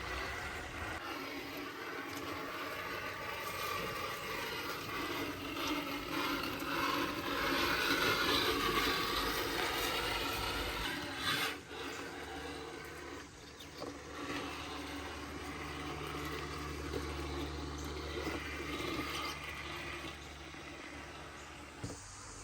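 Small electric motor and gears of a radio-controlled crawler truck whining with shifting pitch as it drives, with rubbing and scraping sounds.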